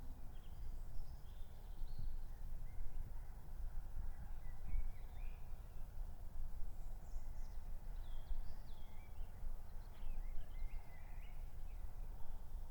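Outdoor ambience after the song ends: a steady low rumble with scattered short bird chirps throughout.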